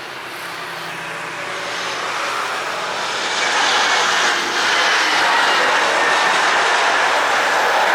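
Boeing 737-900ER's CFM56-7B turbofan jet engines on landing approach: a rushing jet roar that grows louder over the first few seconds and then holds steady.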